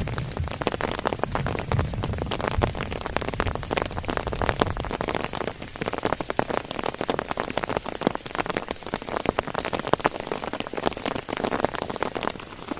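Heavy rain falling, a dense, steady stream of sharp drop hits close to the microphone, with a few low thuds in the first couple of seconds.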